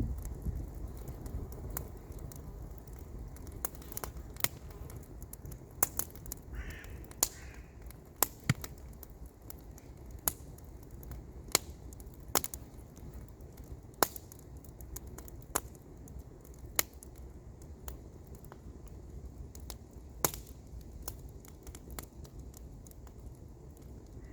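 Wood campfire crackling, with sharp, irregular pops and snaps over a low steady rumble.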